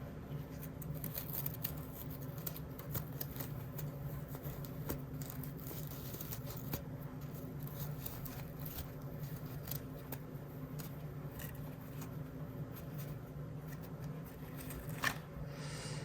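Small plastic blind-bag packaging and toys being handled: many light clicks, taps and scratches, with a short rustle of the wrapper near the end, over a steady low hum.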